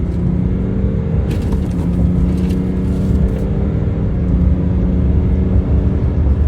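3.0 Duramax inline-six turbodiesel pulling under heavy throttle as the truck accelerates, the engine note growing steadily louder. The hard run is a test of whether a previously cleared check engine fault returns at full throttle.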